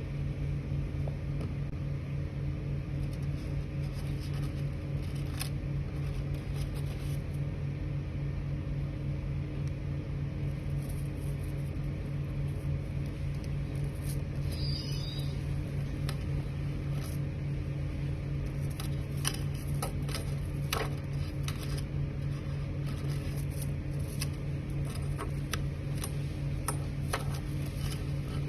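3D printer running: a steady fan and motor hum, with scattered sharp clicks that come more often in the second half.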